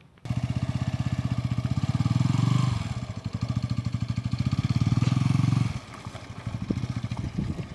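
Old motorcycle engine revving under throttle: it comes in suddenly, rises, dips briefly about three seconds in, runs strong again, then drops back to a quieter idle near the end.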